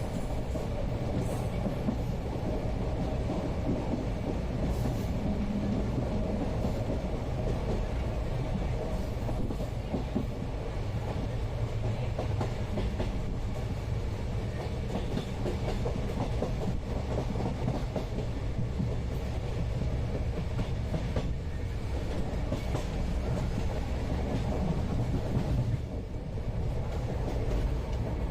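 Passenger train running steadily, heard from inside the coach: a continuous rumble with the clickety-clack of the wheels over rail joints.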